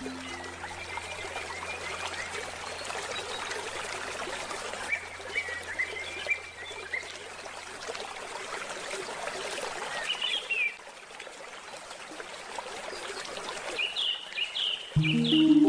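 Stream water flowing steadily, with small birds chirping in short bursts several times. A low steady tone fades away over the first half, and pitched handpan notes come in just before the end.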